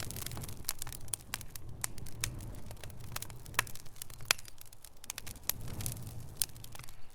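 Wood fire burning in a fireplace: irregular sharp crackles and pops, scattered unevenly, over a low steady rumble of the flames.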